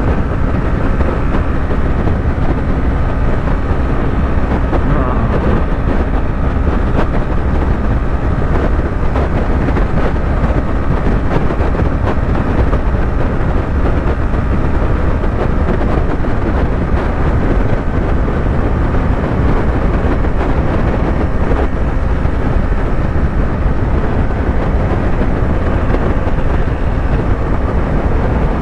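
Yamaha YZF-R3's parallel-twin engine running at a steady highway cruise, mixed with heavy wind rushing over the microphone.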